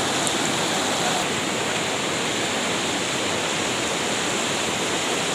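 Steady rush of water, loud and unbroken.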